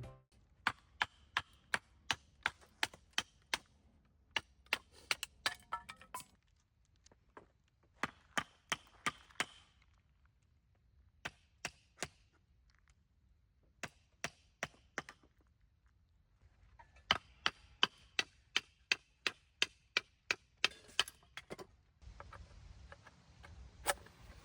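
Wood being chopped or split for a campfire: runs of sharp knocks at about three strokes a second, with short pauses between runs.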